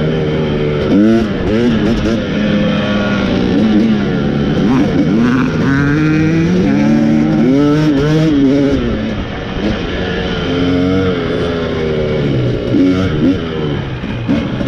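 KTM 300 XC two-stroke dirt bike engine running as it is ridden to warm up, its revs repeatedly rising and falling with the throttle.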